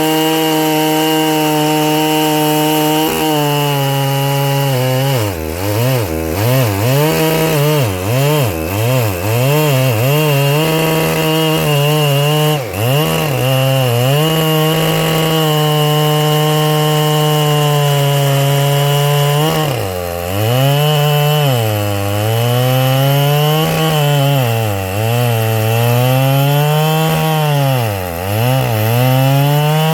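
Ported Husqvarna 3120XP chainsaw at full throttle, its carburettor set slightly rich, cutting through wood twice. In each cut the engine pitch repeatedly sags under load and climbs back, and between and after the cuts it holds a steady high rev.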